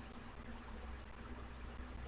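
Steady low hum under a faint even hiss, with no distinct handling clicks or knocks: background room tone.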